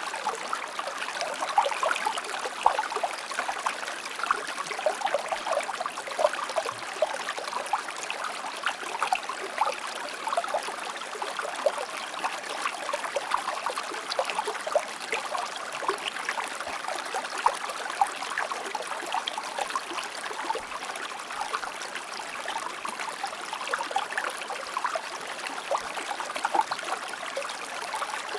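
Shallow river or stream flowing steadily, a continuous rush of water with many small splashes and gurgles.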